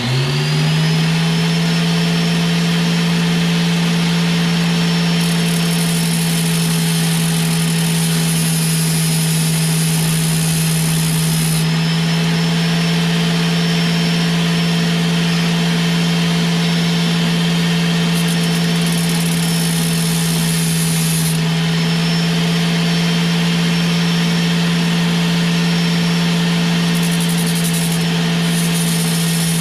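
Electric grinder switched on, spinning up in under a second and then running at a steady pitch, with stretches of added high hiss as it grinds at the cap of a stock LS truck fuel injector.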